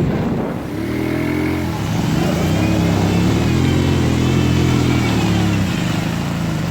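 A motor vehicle's engine revving hard and steadily, its pitch wavering up and down for several seconds before it eases off near the end.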